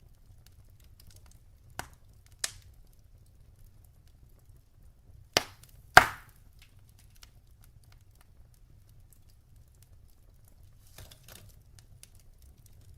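Wood fire burning in a fireplace: logs crackling over a steady low rumble, with four sharp pops, the loudest about six seconds in, and a few soft crackles near the end.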